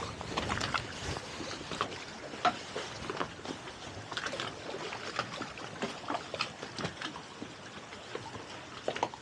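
Water slapping and sloshing against a boat hull: a run of irregular small splashes and light knocks over a soft wash of water.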